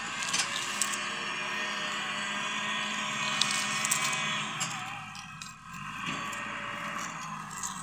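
Tractor engine running steadily under load, easing briefly about five seconds in, with a few sharp clicks over it.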